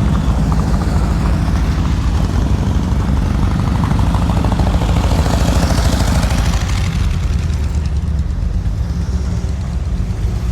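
Volkswagen-powered dune buggies driving past at low speed, their engines running with a steady low rumble that is loudest about halfway through as one goes by.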